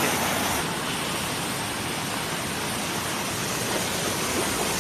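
Steady rushing noise of water on a flooded street, an even hiss with no clear strokes or tones.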